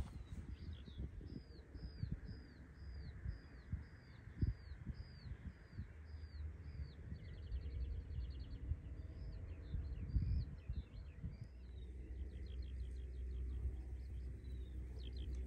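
A songbird singing: a long run of repeated short chirps, about two a second, broken twice by fast trills. Under it a low wind rumble with a few soft thumps.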